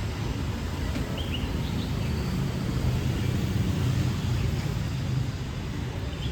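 City street traffic: a steady low rumble of passing engines, swelling in the middle and easing near the end. A few faint high chirps sound a little over a second in.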